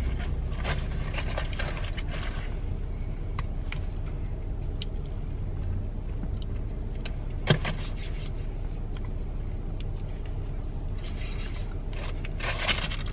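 Steady low hum of a car cabin with the engine running, under scattered small clicks and rustling as food and drink containers are handled. One sharp click comes about halfway through, and a burst of rustling and clicking comes near the end.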